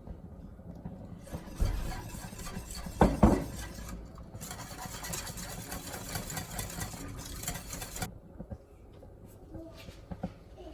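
Hot oil sizzling as chicken deep-fries, a steady hiss that cuts in and out sharply, with two heavy knocks in the first few seconds.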